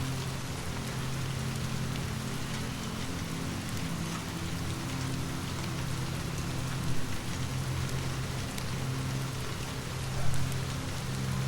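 Steady rain falling on a surface, an even hiss with scattered drop ticks, over a constant low rumble. Two brief louder knocks come in the second half.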